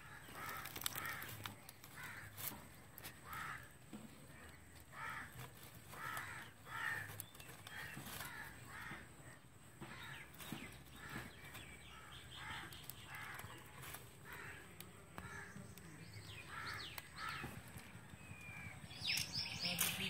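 A bird calling over and over in a series of short calls, one or two a second.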